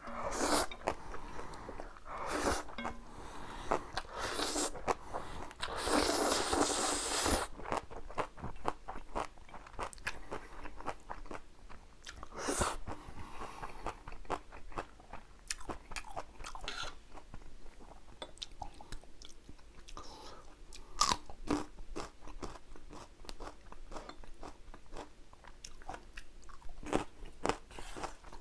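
Close-miked mukbang eating: crunchy bites and chewing of kimchi and spicy jjapagetti noodles, with many short crisp crunches. There are a few longer, noisier stretches of eating in the first several seconds.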